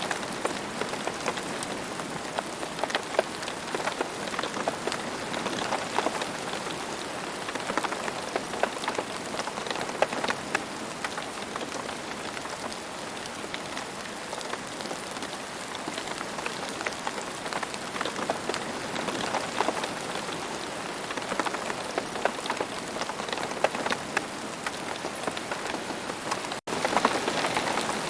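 Steady rain falling, a dense patter of many individual drops at an even level. The sound drops out for an instant near the end.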